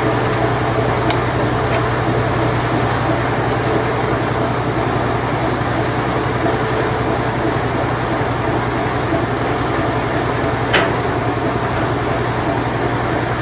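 Whirlpool Imperial Clean Touch washing machine running with a steady hum, with a sharp click about eleven seconds in.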